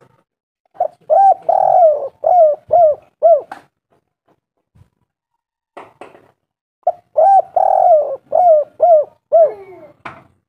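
Spotted dove cooing: two song phrases of about six coos each, one note in each phrase longer and fuller than the rest. A couple of short clicks fall between and after the phrases.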